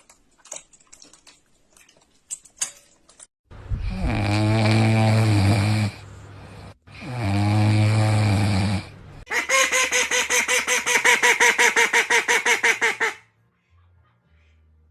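An animal's vocal sounds: two long, drawn-out pitched calls, then a fast pulsing call of about six pulses a second that stops suddenly.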